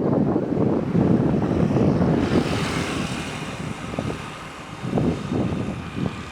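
A vehicle engine running steadily under gusty wind noise on the microphone; about two seconds in a higher hiss joins it.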